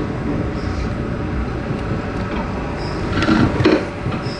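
Train running along the track: a steady rumble of wheels on rails, with a few sharp clacks about three seconds in.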